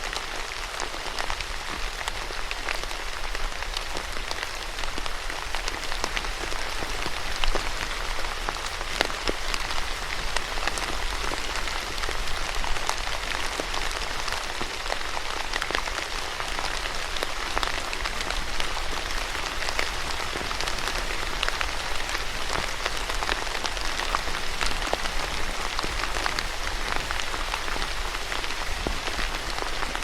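Steady rain falling on a hard surface, a dense even patter with many individual drops ticking through it.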